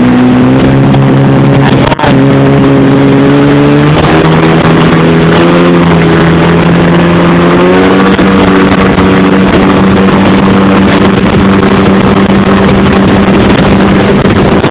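Sea-Doo XP jet ski's two-stroke engine running hard at speed, loud and steady, its pitch stepping up slightly a few times.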